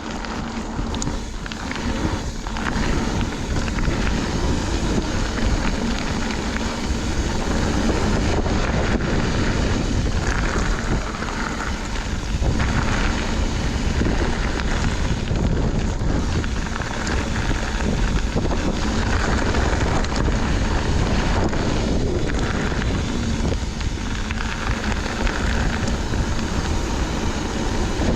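Wind buffeting the microphone of a camera riding on a mountain bike, over the steady rush of knobby tyres rolling on a dirt trail.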